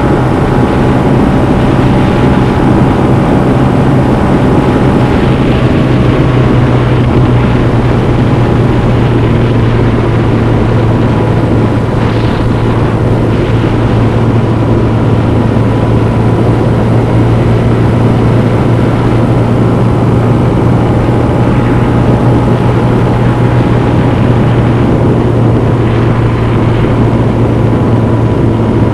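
Honda CB125F's air-cooled 125cc single-cylinder four-stroke engine running under way, heard onboard the moving motorcycle. The engine note holds steady throughout, with no gear changes or revving.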